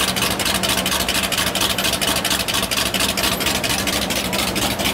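Classic car engine running at a slow crawl with a loud exhaust, a steady rapid chop of even pulses.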